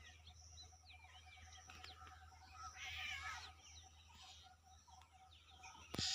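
Small birds chirping all around over a steady, rapid ticking call, with a louder mewing call about three seconds in. A sudden loud burst of noise comes right at the end.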